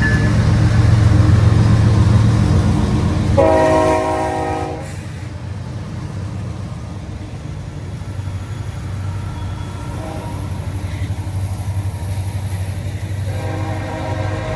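Train at a station: a low diesel locomotive rumble, loud for the first few seconds and then quieter, with a multi-tone locomotive horn sounding a blast of about a second about three and a half seconds in and another blast starting near the end.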